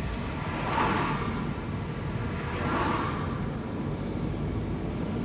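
Road and engine noise of a Toyota car heard from inside the cabin while driving, a steady rumble and hiss that swells briefly about a second in and again around three seconds.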